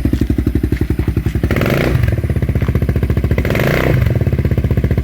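Yamaha Morphous scooter with a swapped-in 400 engine, running through a Yoshimura RS3 muffler: it idles with an even pulsing exhaust note and is revved twice, about a second and a half in and again about three and a half seconds in. The exhaust note is deep.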